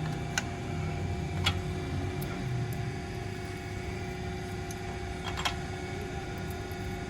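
A car engine runs steadily with a low hum. A few sharp metallic clicks or taps sound about half a second in, near a second and a half, and again about five and a half seconds in.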